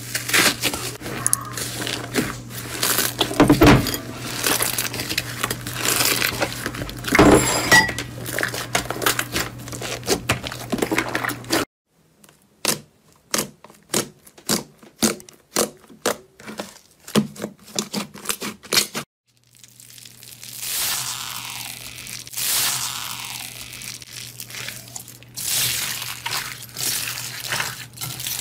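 Slime being squeezed and pressed by hand, giving dense crackling and popping clicks. In the middle stretch, separate sharp pops come about two a second with near silence between them.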